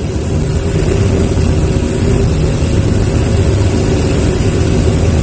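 A steady engine drone: a low, even hum with a constant hiss over it.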